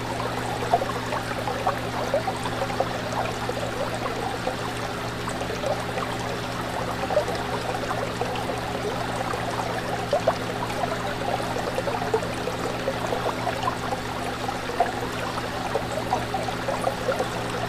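Fish tank water bubbling and trickling continuously, with many small pops throughout, over a steady low hum.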